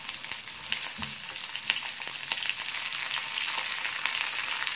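Chopped onion going into hot oil in a kadhai and sizzling steadily, with many small crackles and pops from the tempering of mustard seeds and curry leaves.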